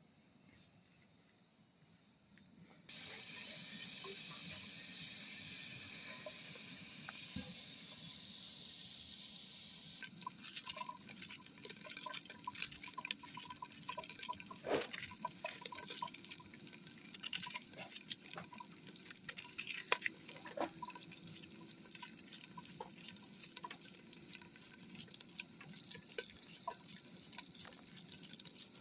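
Water running from a tap, starting abruptly about three seconds in as a steady stream. From about ten seconds in it breaks up into irregular splashing and dripping.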